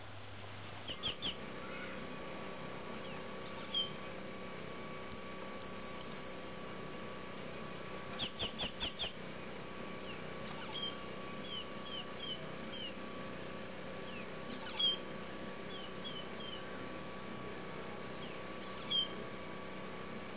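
Small birds chirping: short, high chirps that come in quick runs of three to five, again and again, over a faint steady hum.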